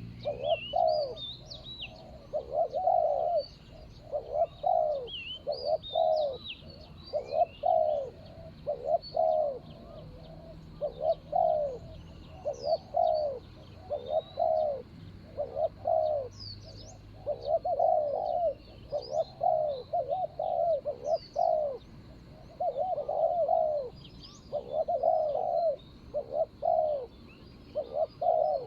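Spotted doves cooing over and over, short rolling coo phrases coming about once a second without a break. Small birds chirp faintly in the background.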